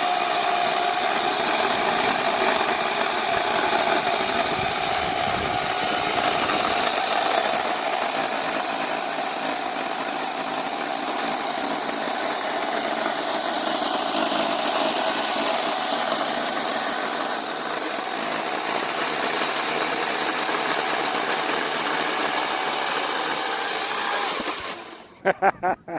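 Ryobi 40V HP brushless battery chainsaw running with a steady motor whine, its chain cutting through firewood. It stops abruptly near the end, followed by a few sharp knocks.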